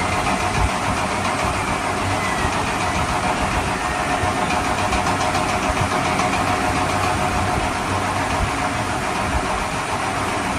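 A steady engine-like running sound, like a vehicle idling, holding an even level throughout.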